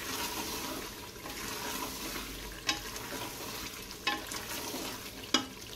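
Beef and green bean curry sizzling and frying in oil in an open aluminium pressure cooker over a medium-high flame: the bhuna stage. It is stirred with a spoon that knocks against the pot three times.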